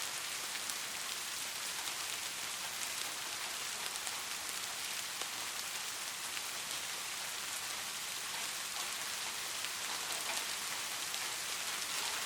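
Steady soft rain falling: an even hiss of rainfall dotted with many small, sharp drop ticks.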